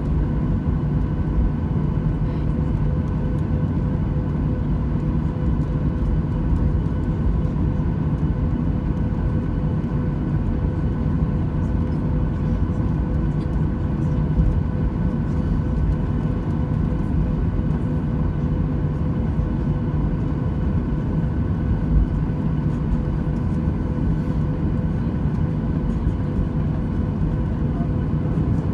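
Boeing 737-800's CFM56 turbofan engines heard inside the passenger cabin: a steady drone and rumble with a constant whine, holding an even pitch with no spool-up or spool-down.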